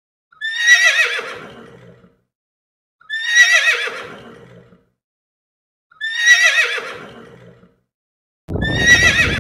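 Horse whinnying four times, about every two and a half seconds: each is the same quavering neigh that falls in pitch and fades, a repeated sound effect. A loud rough noise starts with the fourth whinny.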